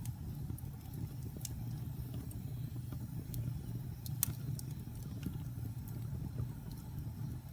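Wood fire burning in a fireplace: a steady low rumble of flames with scattered sharp crackles and pops, the loudest about four seconds in.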